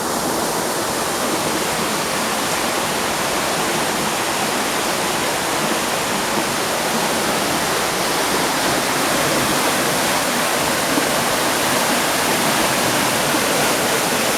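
Brook in flood, a steady loud rush of fast, high water pouring over and around an obstruction.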